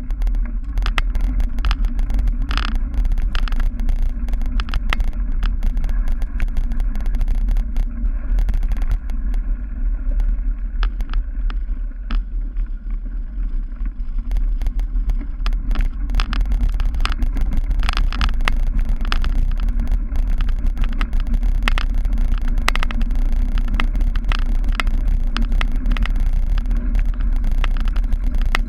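Cyclocross bike riding hard over rough grass and dirt: a steady heavy rumble with frequent sharp clicks and knocks as the bike rattles over the bumps.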